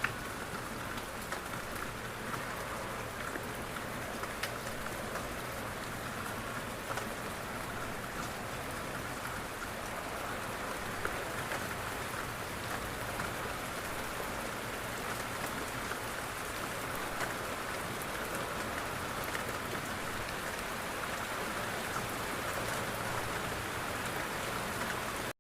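Steady rain falling on a window, an even wash of sound with scattered sharper drop hits.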